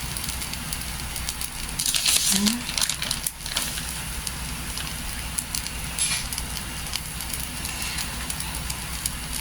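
Taco shell and cheese sizzling in a hot pot, a steady hiss with scattered crackles.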